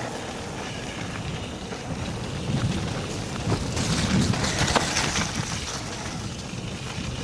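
Mountain bike rolling over a wet, muddy trail: steady tyre noise with splashing and scattered knocks from the bike, and wind on the microphone. It gets louder and rougher from about two and a half seconds in.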